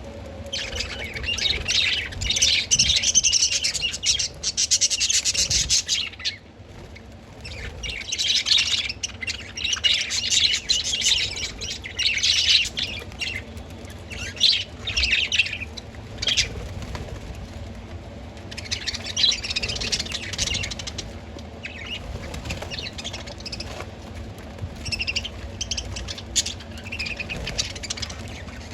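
Pet budgerigars chattering and warbling in busy bouts of a few seconds, with short lulls between them.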